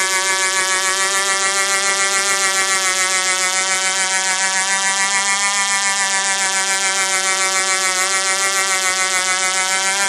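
Small model-helicopter glow engine on a Du-Bro Whirlybird 505 running steadily at high revs, a high-pitched buzz with a fast regular pulsing in loudness. The pitch dips slightly about eight seconds in and again near the end.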